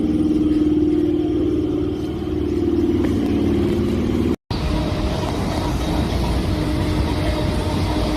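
Vehicle engine running with a wavering drone. After a sudden cut about halfway through, a train running on its rails with a steady hum.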